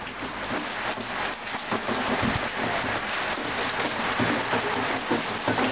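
Steady rain falling on a paved courtyard, an even hiss.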